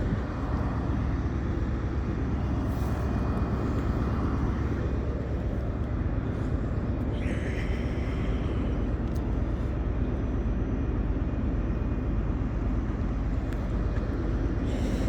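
Railway station platform ambience: a steady low rumble of trains idling, with a brief higher-pitched sound about seven seconds in.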